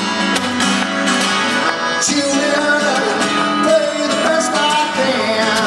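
Acoustic guitar strummed in a steady rock-and-roll rhythm, an instrumental passage of live music between sung lines.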